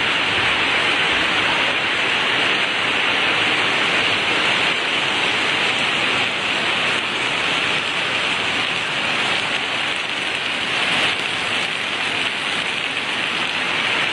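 Heavy storm rain pouring down in a steady hiss.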